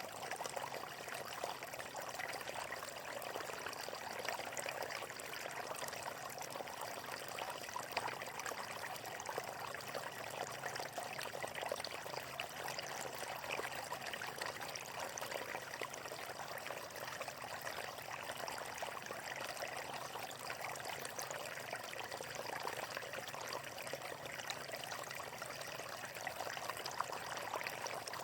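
Water flowing steadily over stones, a constant trickling and splashing rush with no pauses.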